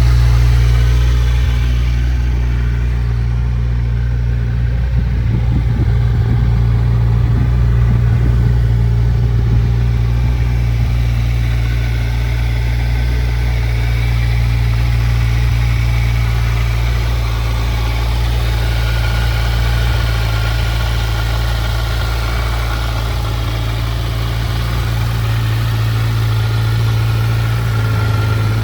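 2022 Kawasaki Versys 1000 SE's inline-four engine idling steadily.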